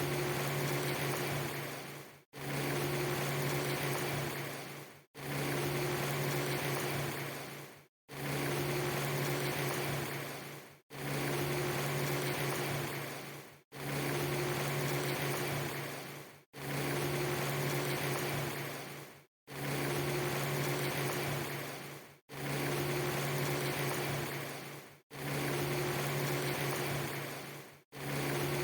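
A steady low hum with a higher tone and an even hiss over it, cut into a short loop. It fades and breaks off into a moment of silence about every three seconds, then starts again.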